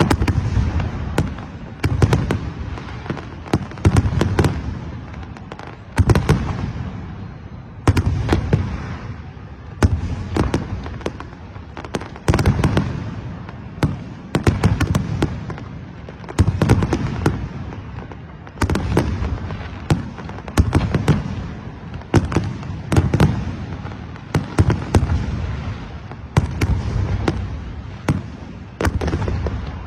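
A fireworks display with shells bursting one after another: clusters of sharp bangs about every second or two, each fading out in a long echo.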